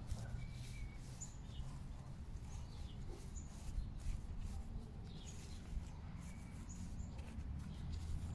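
Small birds chirping faintly now and then, over a steady low rumble of wind on the microphone.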